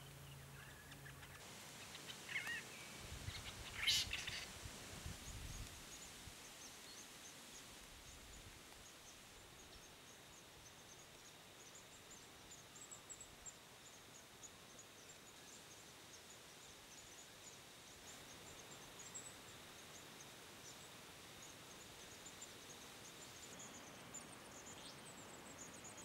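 Faint, high chirping of a small bird: a long series of short, quick notes, with a louder short call about four seconds in.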